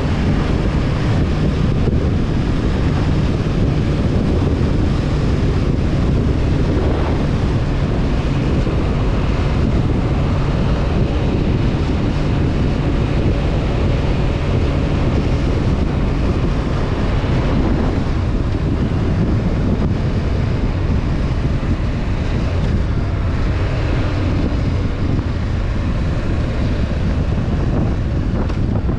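Honda CB500F parallel-twin engine running steadily at cruising speed, with wind rushing over the microphone.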